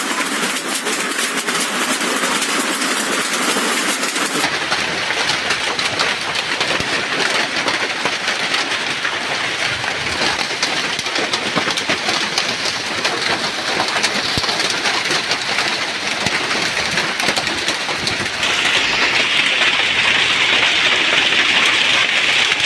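Heavy hail falling with rain: a loud, dense, unbroken clatter of countless small impacts. The sound changes abruptly about four seconds in and again near the end.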